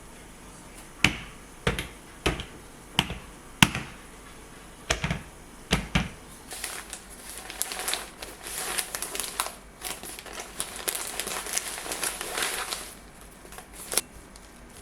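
A run of sharp clicks and knocks, like hard objects being handled and set down, followed by several seconds of crinkling rustle, then one more knock near the end.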